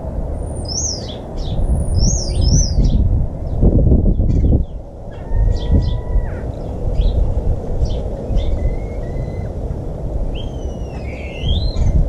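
Garden birds calling: a run of high, falling chirps in the first few seconds, a few whistled notes in the middle, and a sliding call near the end, over a loud low rumble.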